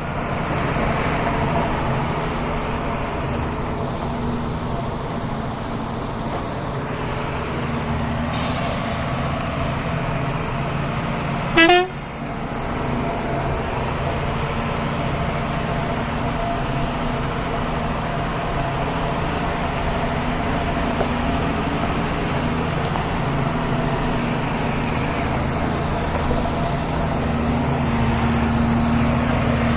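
Heavy truck's diesel engine running steadily, with a short hiss about eight seconds in and a brief loud sharp noise near twelve seconds.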